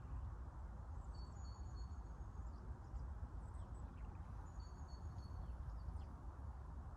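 Steady rush of a small river with a low rumble underneath, and faint high thin whistling calls twice, each lasting about a second.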